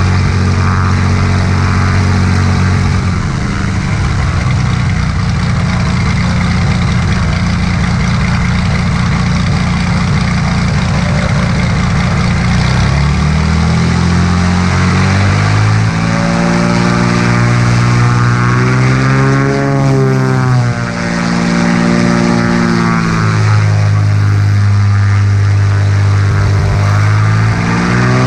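Cessna light aircraft's engine and propeller running loudly and steadily. Its pitch holds level at first, then slides up and down several times in the second half.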